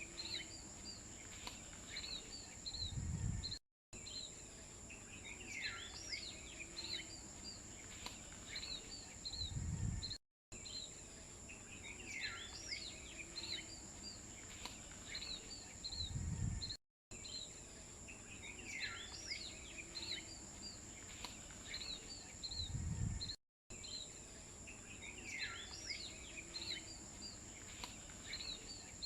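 Birds chirping over a steady high-pitched insect-like hum. The same few seconds of outdoor ambience repeat about every six and a half seconds as a loop, each pass ending in a brief low rumble and then a moment of total silence.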